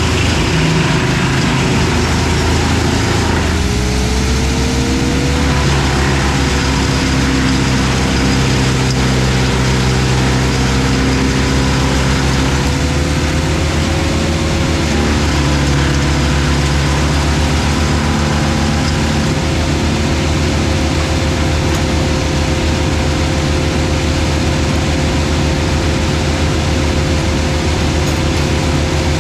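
Heavy machinery running steadily: a wood chipper and the excavator feeding it. A steady whine comes in about three and a half seconds in and holds, wavering slightly in pitch.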